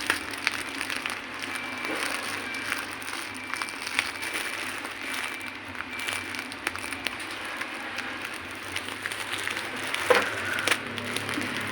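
Plastic packaging being handled and pulled at by hand while it is opened, a continuous crinkling with many small clicks and crackles, and a couple of sharper snaps near the end.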